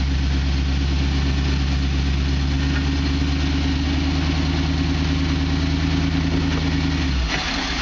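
Rock-crawling off-road vehicle's engine running steadily at low revs as it climbs a rock, its note dropping off abruptly about seven seconds in.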